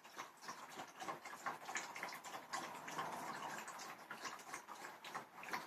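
A dog lapping water, a steady run of soft wet clicks.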